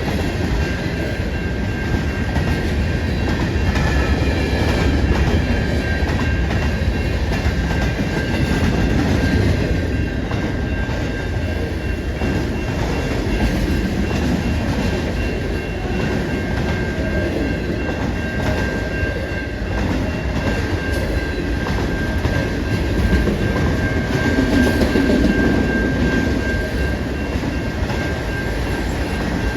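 A train rolling past with a steady rumble and wheels clacking over the rails, along with a thin, steady high whine.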